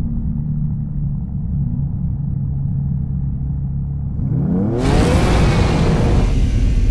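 2023 BMW M2's S58 twin-turbo inline-six running steadily at low revs, then accelerating hard about four seconds in, its pitch rising quickly into a loud full-throttle exhaust note.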